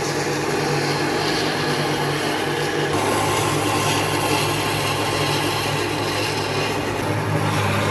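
A power tool's motor running steadily while working wood: a continuous hum under an even abrasive noise, shifting slightly about three seconds in.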